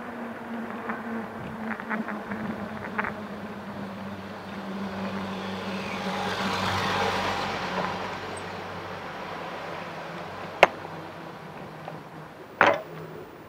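City street traffic heard from a moving bicycle. A steady low hum runs under it, a vehicle swells past about halfway through, and there are a few sharp knocks near the end.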